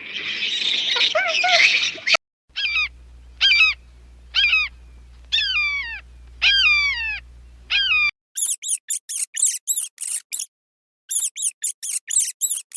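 Animal calls in a quick edited sequence. First a harsh, noisy burst. Then a run of about eight falling calls, each about half a second long. After that, from around eight seconds in, rapid high-pitched bird-like chirps in two quick runs.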